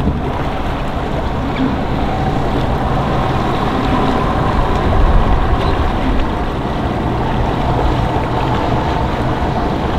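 Boat motors running steadily at the ramp, mixed with wind and water noise.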